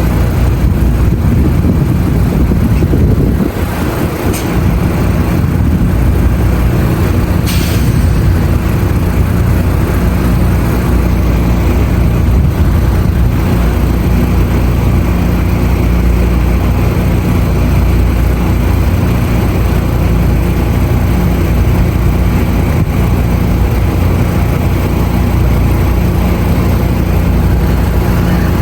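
Train running at the station platform: a steady, loud low rumble and hum with no clear breaks.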